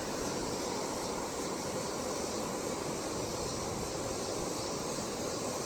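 Fast-flowing creek water running steadily, an even rush with no separate splashes.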